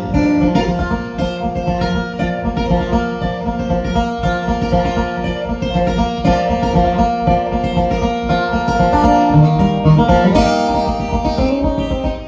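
Instrumental break of a folk ballad played on plucked acoustic strings, led by guitar.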